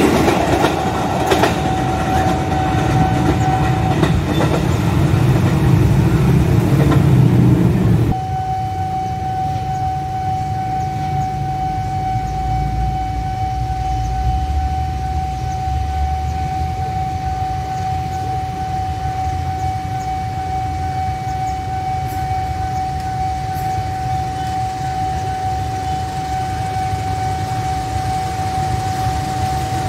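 An electric commuter train rolls past close by with wheel clatter until an abrupt change about eight seconds in. After that a level-crossing warning signal sounds a steady tone over the low, distant rumble of an approaching CC201 diesel-electric locomotive.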